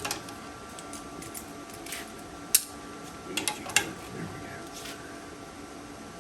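A few scattered sharp clicks and light knocks of things being handled, the loudest about two and a half seconds in and a small cluster about a second later, over a steady background hum.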